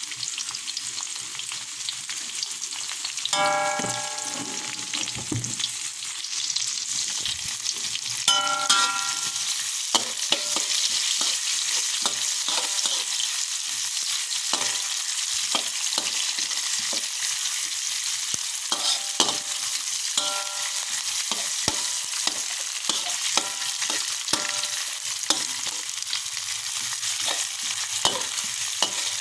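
Food sizzling as it fries in hot oil in a pan, stirred with a spatula that clicks and scrapes against the metal throughout. There are two brief ringing clangs from the pan, about three and eight seconds in, and the sizzle grows louder after about seven seconds.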